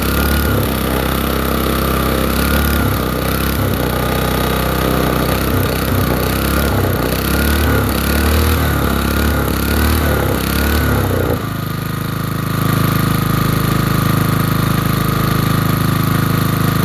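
Small portable generator's gasoline engine running cold, uneven and lumpy at first. About eleven seconds in, it abruptly shifts to a steadier, higher-pitched run.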